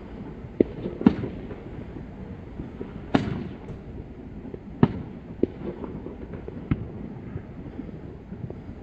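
Fireworks going off at a distance: about six sharp bangs at uneven intervals, the loudest about three seconds in with a brief crackling tail, over a steady low rumble.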